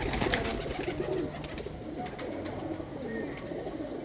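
Several pigeons cooing over one another in a loft, with scattered sharp clicks among them.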